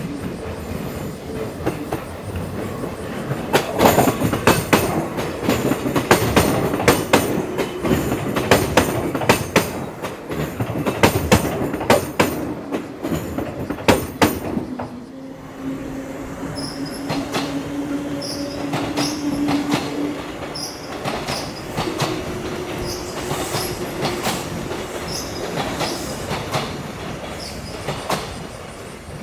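Kintetsu electric commuter train rolling slowly over the terminal's points and rail joints: a rapid, irregular wheel clatter, loudest through the middle. In the second half it turns to a steadier running sound with a drawn-out wheel squeal.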